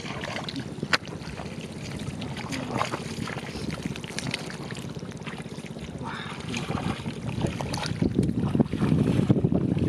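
Muddy water sloshing and splashing as it is worked by hand, with wind buffeting the microphone; it grows louder near the end.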